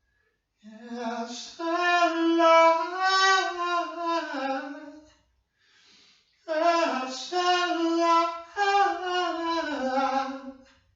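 A single voice singing two long, slow phrases with held notes and a short break between them, with no accompaniment.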